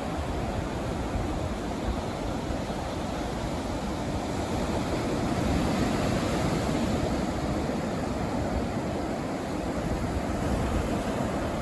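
Gulf of Mexico surf washing onto a sandy beach, with wind rumbling on the microphone. The wash swells a little about halfway through.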